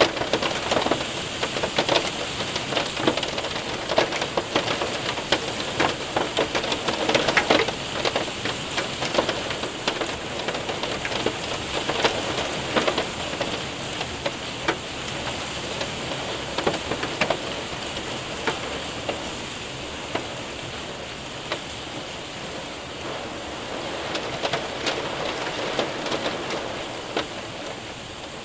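Heavy rain mixed with hail pelting a window and roof: a dense steady patter with many sharp individual ticks and taps of hailstones, heavier in the first half and easing a little in the second.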